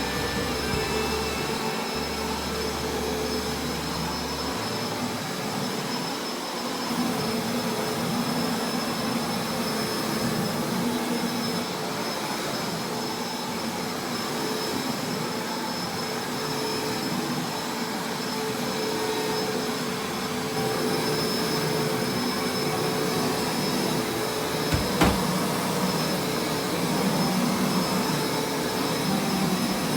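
Upright carpet-washing machine running steadily, its suction motor drawing water back out of the carpet as it is pushed over it. Late on, a brief knock.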